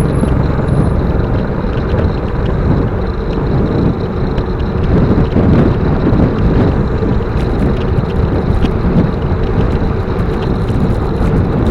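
Steady rush of wind over the microphone of a bicycle rider's camera while riding.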